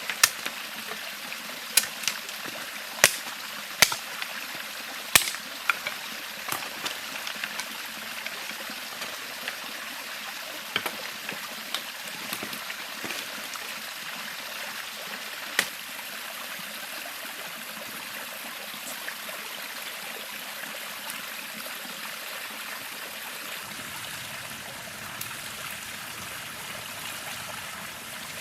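A river flowing steadily beside the camp, a constant rush of running water. Sharp clicks or knocks cut through it, several in the first six seconds and then only now and then.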